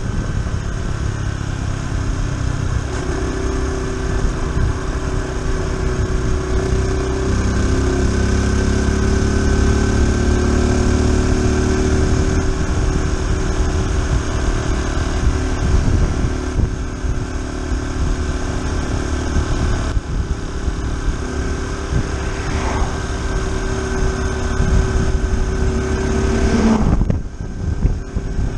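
Honda Super Cub C125's single-cylinder four-stroke engine running steadily at road speed under a heavy low wind rumble, its note shifting pitch a few times. Near the end the engine sound dips and falls sharply for a moment.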